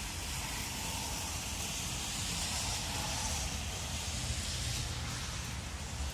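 Thunderstorm rain and wind: a steady hiss of rain with wind gusting on the phone's microphone, making an uneven low rumble.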